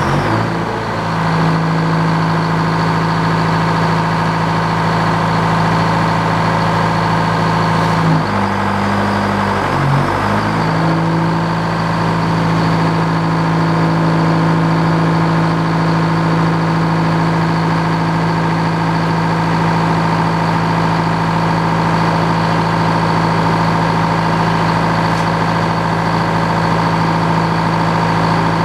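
Sawmill's engine running steadily just after being started. Its note shifts briefly, rising about 8 seconds in and dipping around 10 seconds, then settles back to an even run.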